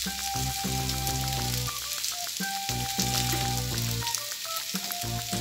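Salami and sausage slices sizzling as they fry on a hot electric grill, under background music of held notes that change about once a second.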